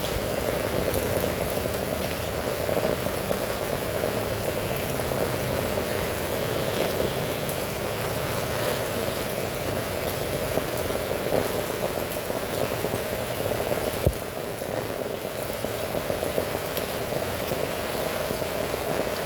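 Heavy rain falling steadily, with scattered ticks of drops and one sharp knock about 14 seconds in.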